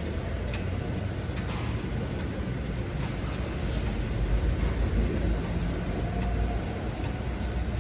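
Steady low rumble of motor-vehicle noise, with a few faint light clicks.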